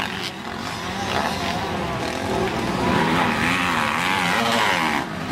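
Motocross bike engines revving hard as they race past, the pitch repeatedly rising and falling with throttle and gear changes, loudest a few seconds in.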